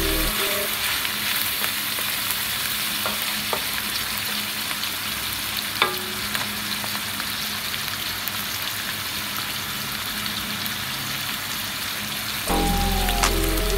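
Chicken, tofu and mushrooms sizzling steadily in oil in a steel wok, with a few knocks of a wooden spatula against the pan. Background music comes in near the end.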